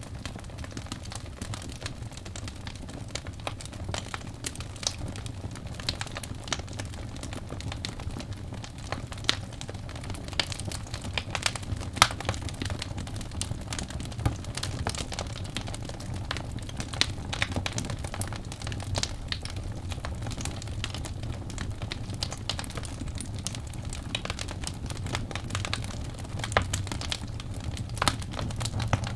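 Crackling fire: irregular pops and snaps, a few sharper than the rest, over a steady low rumble.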